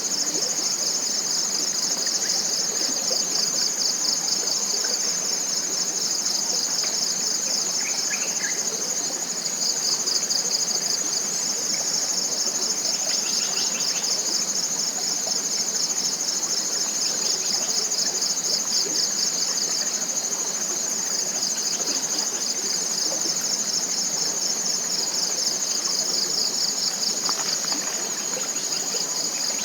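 Dense chorus of forest insects: a steady, high-pitched shrilling drone with a fine rapid pulse. A few short, faint bird calls break through it now and then.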